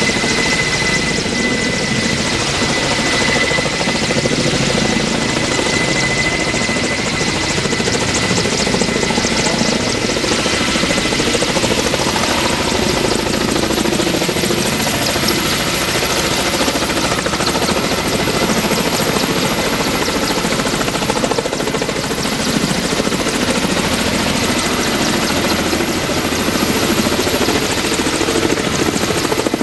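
Kamov Ka-32 coaxial-rotor helicopter running steadily, its twin turboshaft engines and rotors making a loud, even noise. A steady high tone runs through it and fades out about seven seconds in.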